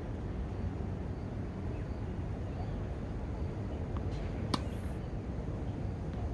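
A tennis racket strikes a ball once, sharply, about four and a half seconds in, with a fainter tap just before it, over a steady low background rumble.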